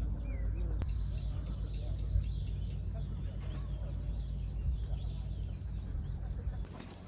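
Many small birds chirping in quick, overlapping calls over a steady low rumble.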